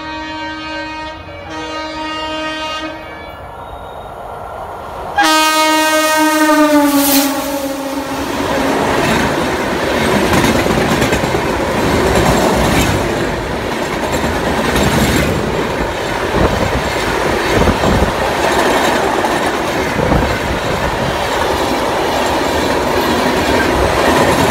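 Express train's horn sounding in two blasts as it approaches, then a louder blast about five seconds in whose pitch drops as the locomotive passes. The coaches then rush past at speed, wheels clattering over the rail joints.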